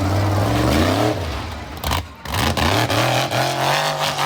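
Monster truck engine revving hard: the pitch climbs and falls, cuts out briefly about two seconds in, then climbs again and holds high.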